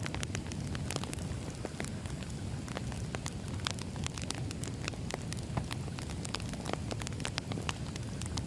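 Wood fire burning steadily, with a low rumble under many irregular sharp crackles and pops of burning firewood.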